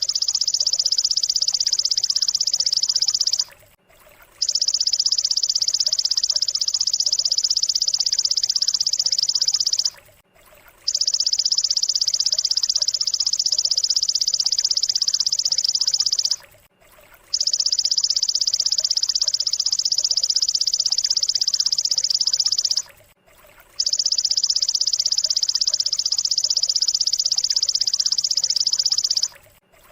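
A looped masteran training recording of a high, dense buzzing trill. It comes in bouts of about six seconds, with short silent breaks between them at a very even spacing.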